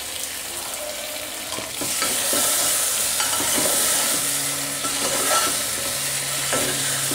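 Stuffed brinjals sizzling in hot oil in a pressure cooker while a steel ladle stirs them, scraping and knocking against the pot. The sizzle grows louder about two seconds in as the brinjals are turned.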